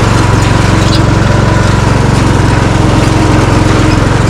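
A riding lawnmower's small engine runs loud and steady while the mower is driven in gear.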